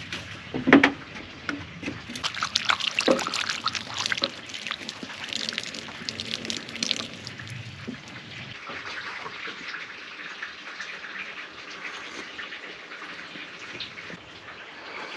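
Water splashing and trickling, with many small splashes and knocks over the first half, then a steadier trickling hiss.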